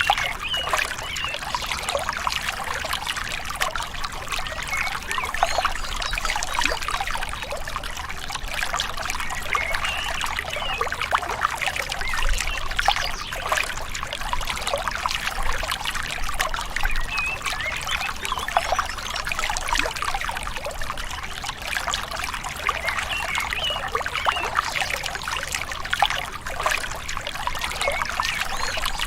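Gently flowing river water, a steady trickling and gurgling with no pauses.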